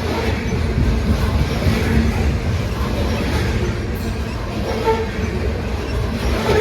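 Coal train rolling past: a steady low rumble of freight cars' wheels on the rails.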